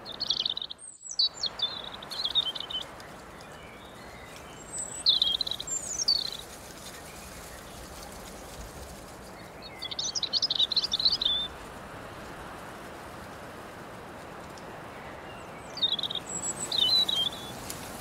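A songbird singing short, quick chirping phrases four times, roughly every five seconds, over a steady hiss of breeze through grass and leaves. The sound drops out briefly about a second in.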